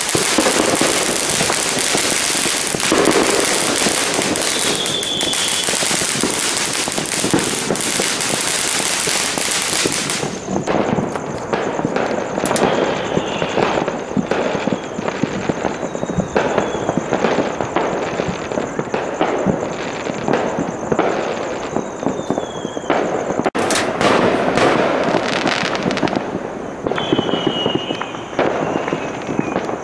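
Fireworks and firecrackers going off all around, a dense run of crackling and sharp bangs, with several short whistles that fall in pitch.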